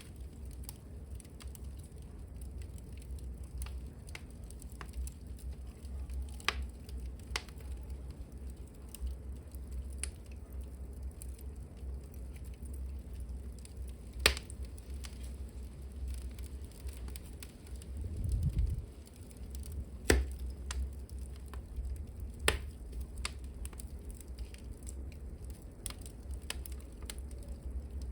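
Wood fire burning in a hearth: a steady low rumble of flames with irregular crackling and sharp pops of burning wood. The loudest pops come about halfway through and again a little after two-thirds in, just after a brief low whoosh.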